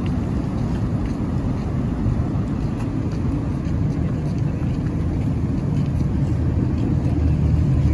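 Steady, low-pitched rushing noise with no breaks.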